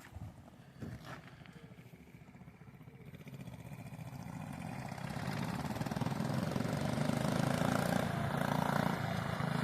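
Mini bike's small engine, fitted with a PZ19 round-slide carburetor, approaching: faint at first, then growing steadily louder through the second half.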